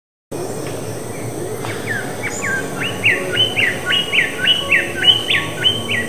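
A bird calling: a run of about a dozen short whistled notes, each sweeping sharply upward, at about three a second, over steady background hiss.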